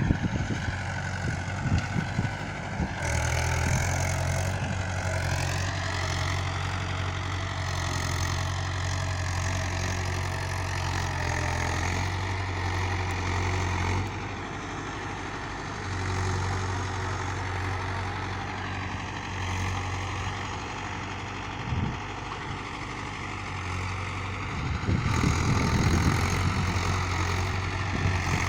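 Mahindra 585 Sarpanch tractor's diesel engine running steadily, its low hum easing off and coming back several times.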